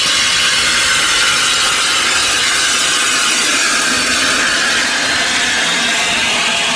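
Steam train running close by, a loud, steady hissing and rushing noise with a faint grinding edge.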